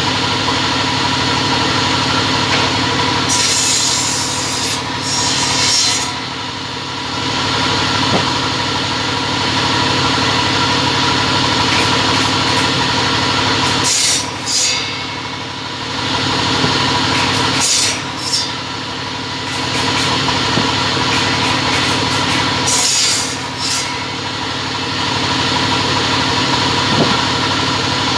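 Two-head cutting machine running steadily, with four louder rasping bursts as a blade cuts through stock.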